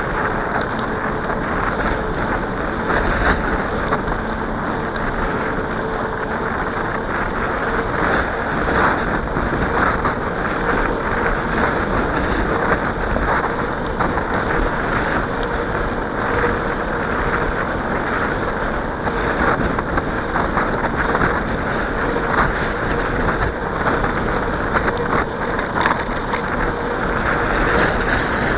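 Steady wind rush on the microphone and rolling noise from a moving bicycle, with a faint steady hum underneath.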